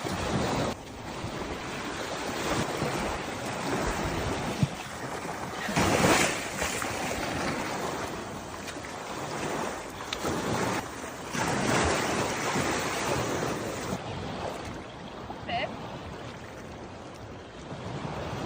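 Waves washing in, swelling in a surge about every five to six seconds, with wind on the microphone.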